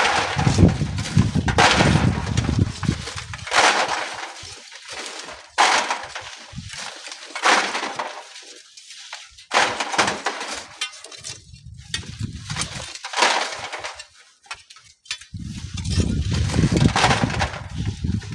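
Shovelfuls of sand and gravel thrown onto a wire sieve screen, a rattling crash roughly every two seconds. Strong wind buffets the microphone with a low rumble during the first few seconds and again near the end.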